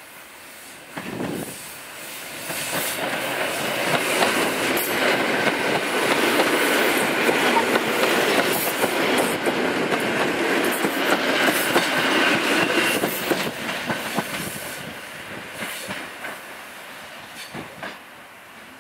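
An EN57 electric multiple unit passing close by, its wheels clicking over the rail joints. The sound builds as the cars come level, stays loud while they go past, then fades away.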